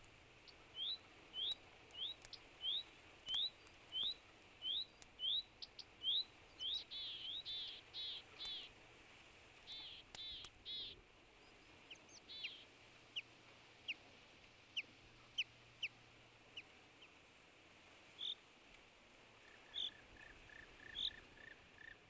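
Birdsong from more than one bird: a short rising whistle repeated about one and a half times a second, then fuller calls, then thin quick notes, and near the end a lower, faster series of notes.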